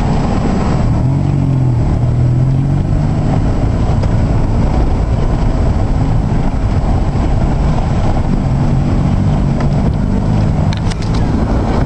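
Loud, steady low rumble of a flooded river rushing at high water, with a few brief clicks near the end.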